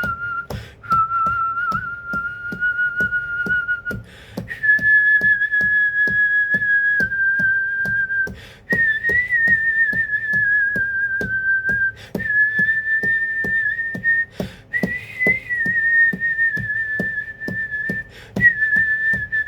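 Wind howling as a steady high whistle, held for several seconds at a time. It breaks off briefly every few seconds and comes back at a slightly different pitch. Quick clicks and rattles run underneath, along with a low rumble.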